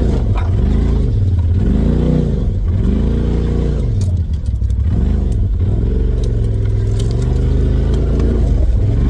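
Polaris RZR side-by-side's engine revving up and down over and over, its pitch rising and falling every second or two, with a few light knocks.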